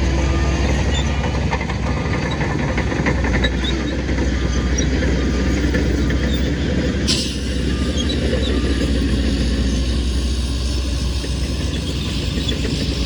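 Heavy diesel earthmoving machinery running steadily, a deep continuous engine drone. A reversing alarm beeps at an even pace in the first few seconds, and there is a single sharp click about seven seconds in.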